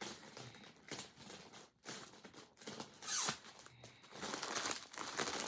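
Plastic packaging crinkling and rustling in the hands, in irregular bursts, with one sharper, louder rustle about three seconds in.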